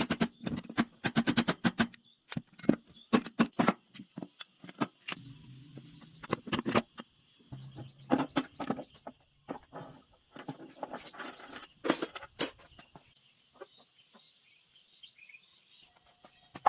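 A rapid run of sharp taps for about two seconds, then irregular clicks and knocks, with a faint steady high chirring underneath.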